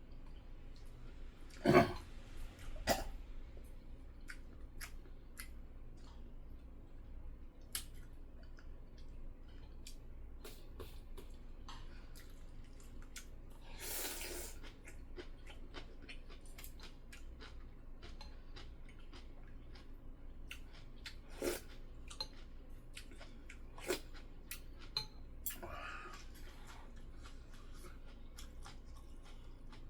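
A person eating: chewing, with scattered clicks of utensils against dishes and two louder knocks about two seconds in.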